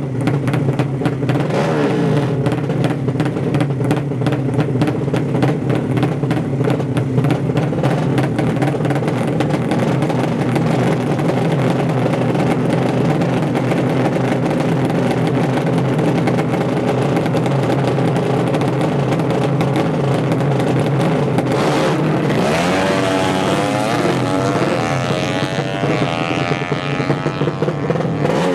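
Engines of 200cc four-stroke underbone drag bikes with horizontal cylinders, running loudly and steadily. From about 22 seconds in, an engine revs hard, its pitch rising and falling again and again.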